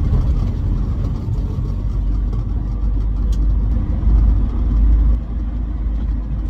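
Morris 1800S 'Landcrab' on the move, heard from inside the cabin: its four-cylinder B-series engine running with a steady low road rumble, a little louder for about a second around four seconds in.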